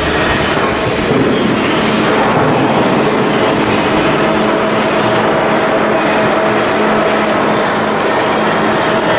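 Steady machinery noise with a constant hum running evenly throughout.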